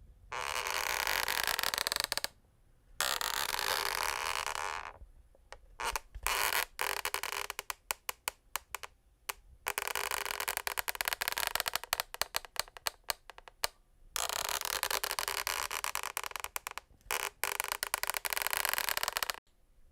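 Wooden parquet floor being worked, giving stretches of scraping, crackling friction a few seconds long with short pauses between them. Through the middle stretch the sound breaks into rapid crackles.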